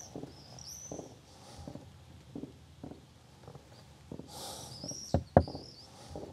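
Small bird chirping in short rising-and-falling phrases, with soft rustling and two sharp clicks close together about five seconds in, the clicks being the loudest sounds.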